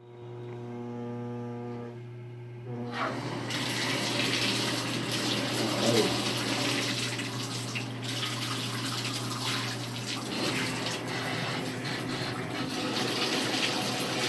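Water running from a bathtub faucet, turned on about three seconds in and then flowing steadily. Before it comes on, a steady hum is heard.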